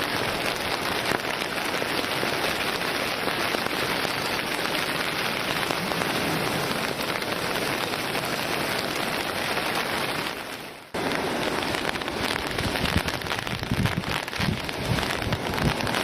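Steady hiss of heavy typhoon rain. It drops out abruptly about eleven seconds in, then comes back with gusts of wind buffeting the microphone.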